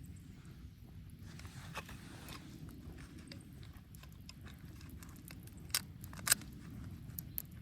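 Wood bonfire burning with a steady low rumble and scattered crackles, with two sharp, loud pops a little past halfway through and a few smaller snaps near the end.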